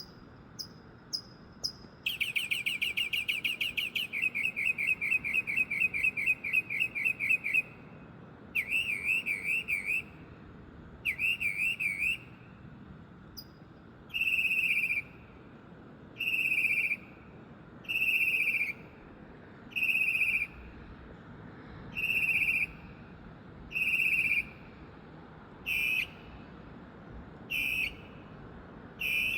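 A male songbird singing loud, varied phrases: a few short chips, then a rapid trill lasting several seconds, two wavering warbled phrases, and from about halfway on a single phrase repeated about every two seconds.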